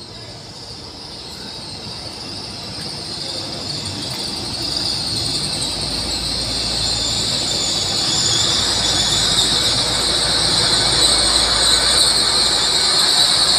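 Hitachi GWR Class 800 intercity train arriving and running past at the platform, with a high squeal that grows steadily louder as it comes alongside and brakes to a stop. A low hum from the train comes in about four seconds in.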